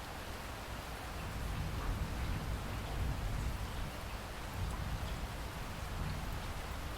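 Steady rain falling, with a low rumble of distant thunder swelling about a second and a half in.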